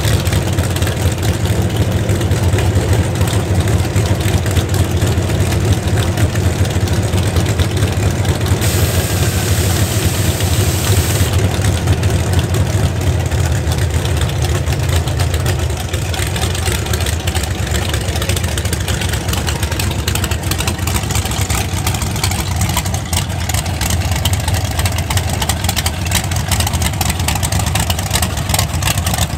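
1969 Camaro drag car's engine idling: a loud, steady low rumble that eases slightly about halfway through.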